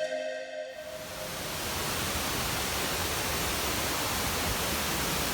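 Steady rushing noise of the Bomburu Ella waterfall's falling water, swelling in about a second in as a music track ends.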